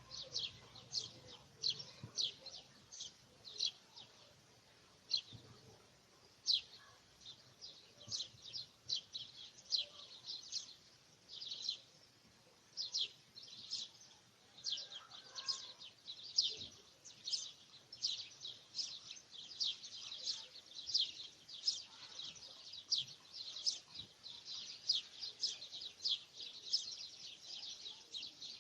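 Birds chirping: a steady run of short, high chirps, each dropping quickly in pitch, about two a second, with a couple of brief pauses.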